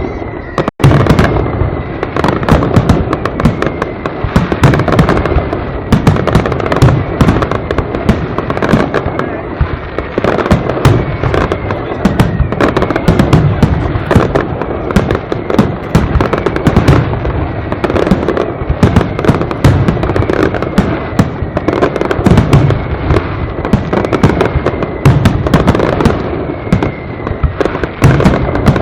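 Castillo fireworks display: a dense, continuous barrage of aerial shell bursts and crackling bangs, with now and then a faint whistle sliding down in pitch. The sound drops out briefly about a second in.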